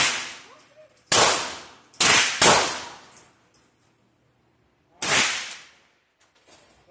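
Four gunshots fired one at a time at a shooting range, each a sharp crack with a short echoing tail: one about a second in, two in quick succession around two seconds, and a last one near five seconds.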